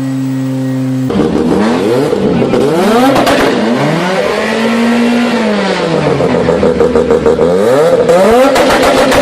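Mazda RX-7 rotary engine held at a steady note for about a second, then revved hard several times, its pitch sweeping up and falling back each time, with a rapid crackle near the end.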